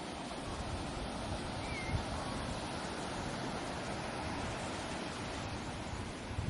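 Ocean surf washing on a beach, a steady rush of waves with low wind buffeting on the microphone. A brief, high wavering call sounds about two seconds in.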